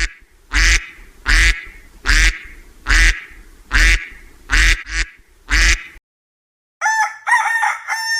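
A duck quacking repeatedly, about one quack a second. After a short pause a rooster begins to crow near the end.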